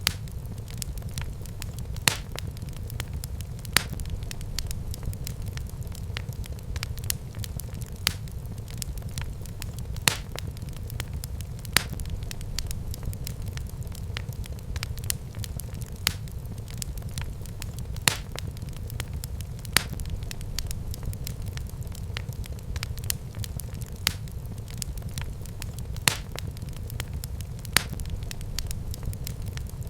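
Wood fire crackling in a fireplace: a steady low rumble of burning with frequent small crackles and a sharp pop about every two seconds.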